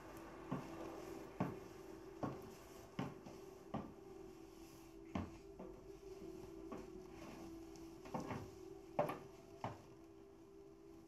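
A faint steady hum with irregular wooden knocks or clicks about once a second, a few of them louder.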